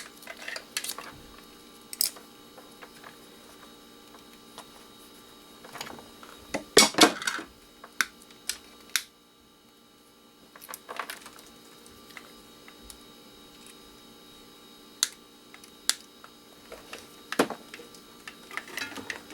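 Scattered clicks and clatters of small metal and plastic electronic parts being handled and set down while an old device is dismantled for scrap, with the loudest burst of clattering about seven seconds in.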